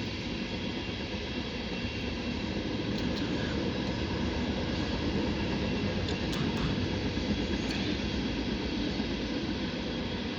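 CSX mixed freight train rolling past, a steady rumble of wheels on rail that swells a little midway.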